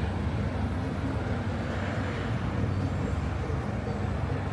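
Steady low rumble of road traffic on a city street, with a slight swell about two seconds in as a vehicle goes by.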